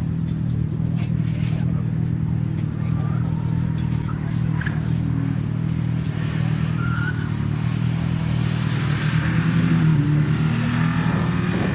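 Slalom car's engine running under load, its revs holding fairly steady and a little louder near the end.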